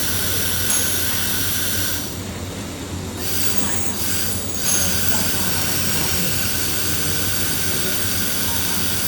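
Metalworking machinery for cutting and welding stainless steel running with a steady hiss and high-pitched whine. The high whine drops out briefly about two seconds in and again around four seconds.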